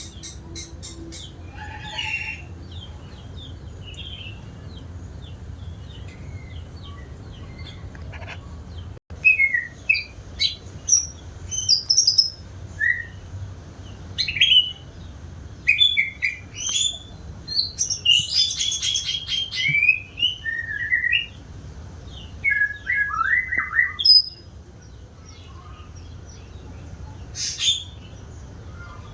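White-rumped shama singing in varied whistled and chirped phrases, sparse at first and then in a long run of song through most of the middle, over a steady low hum.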